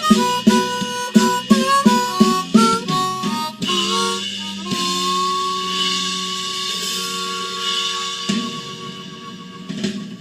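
Blues harmonica playing short phrases over drum and bass backing, then holding one long final note while the backing rings out. The whole thing fades away near the end as the song finishes.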